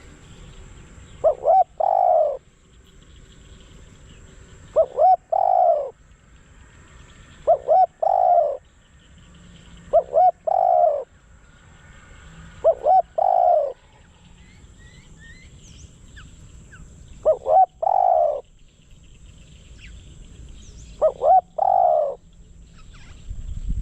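Spotted dove cooing: seven repeated phrases a few seconds apart, each two short notes followed by a longer falling coo. Faint chirps of small birds in between.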